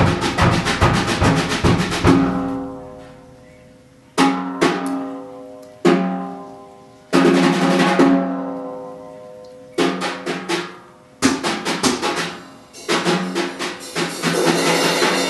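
Drum kit played: a fast roll of strokes for about two seconds, then loud single hits and short rolls every second or two, each ringing on and fading away.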